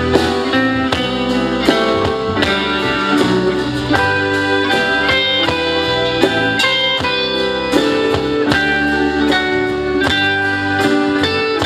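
Instrumental passage of a live band, led by guitar, with a steady bass line.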